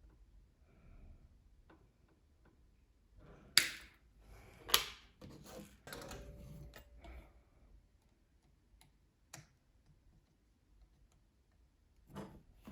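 Sharp clicks and light knocks of hard objects being handled: two louder clicks about three and a half and four and a half seconds in, then a cluster of quieter clicks and rustling, with another pair of clicks near the end.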